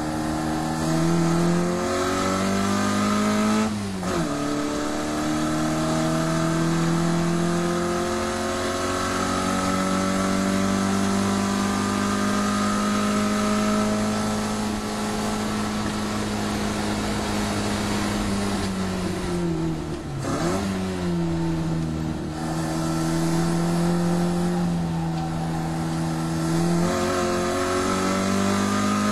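Mini Cooper's 1380cc A-series engine, fed by a Weber 45 carburettor, running hard on track. The engine note climbs and falls with the revs, with sharp breaks about 4 seconds and 20 seconds in that sound like gear changes.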